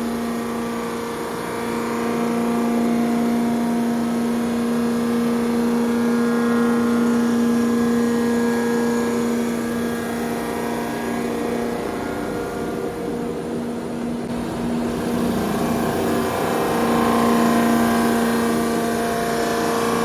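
Engine-machining machine tool running with a steady, even hum, the tone wavering for a few seconds about two-thirds of the way through before settling again.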